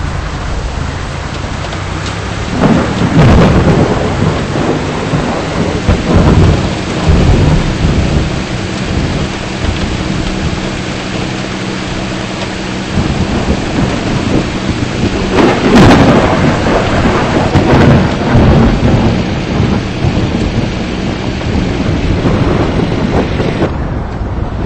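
Steady heavy rain with several low rolls of thunder swelling up over it, the loudest about a third of the way in and again past halfway.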